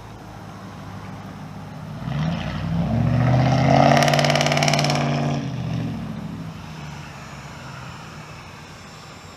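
A motor vehicle drives past: its engine note and tyre hiss swell to a peak about four seconds in. The pitch then drops as it moves away and the sound fades.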